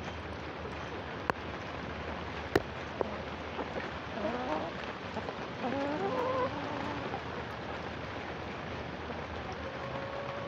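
Steady rain falling. Chickens make several short calls that rise and bend in pitch in the middle, and one more even, held note near the end. There are also two sharp clicks in the first three seconds, about a second and a half apart.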